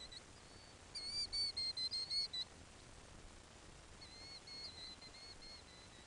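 A bird chirping: a quick run of short, wavering high chirps about a second in, then a softer run a little later, between pauses in harmonica playing.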